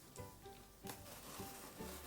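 Soft background music, with a few faint clicks and rustles of a cardboard package being opened.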